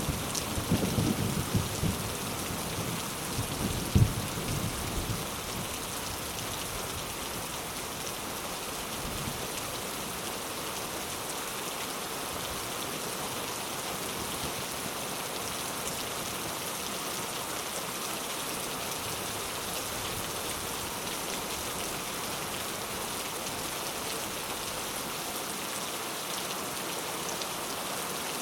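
Steady heavy rain falling, an even hiss. In the first few seconds a low rumble of thunder, with one sharp louder crack, dies away.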